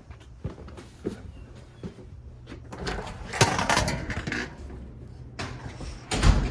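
A 2024 Carrier air conditioner condenser runs with a steady low hum; the owner says the fan motor sounds unhappy running in cool, 60-degree weather. Footstep-like clicks come in the first couple of seconds, a loud hissing burst about three seconds in, and a heavy thump near the end.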